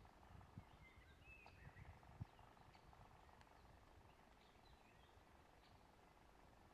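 Near silence, with faint bird chirps and short whistled glides coming and going. A few soft low thumps fall in the first two seconds, the last one the sharpest.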